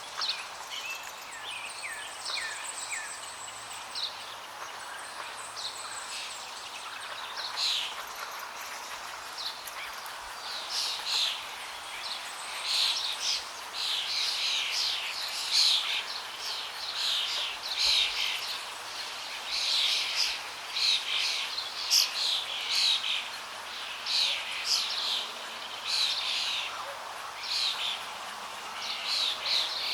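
Birds singing and calling over the steady rush of flowing water. A few thin chirps at first, then from about a third of the way in a dense run of quick repeated song phrases that stay louder to the end.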